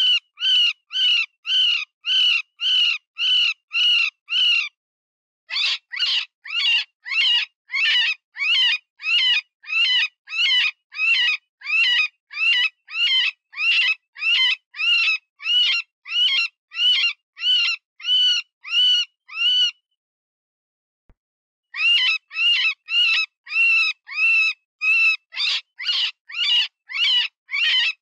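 Cottontail rabbit distress call, the wounded-rabbit squeal used to lure predators: loud, high, wavering squeals repeated about twice a second in long runs. The calling stops briefly twice, once about five seconds in and for about two seconds near the twenty-second mark.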